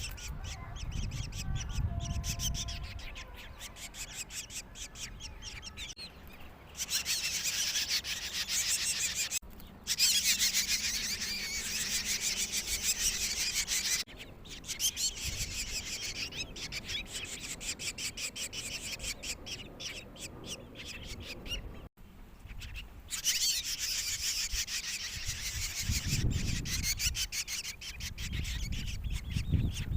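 Small birds chirping rapidly and densely in several separate stretches that start and stop abruptly. There is a low rumble near the start and again near the end.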